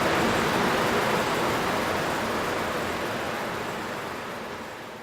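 Steady rushing of flowing water, an even noise with no distinct events, fading out gradually over the last few seconds.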